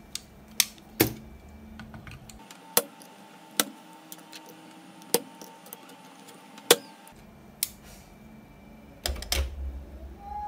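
Irregular sharp clicks and knocks of hard objects being handled and set down, about a dozen in all, with a short cluster of knocks near the end.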